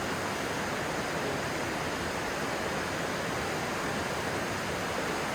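Stream water rushing steadily, an even hiss of flowing water.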